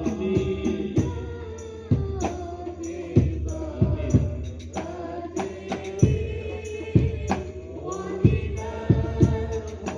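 A man singing a long, ornamented melody with held, gliding notes, accompanied by irregular hand-drum strokes.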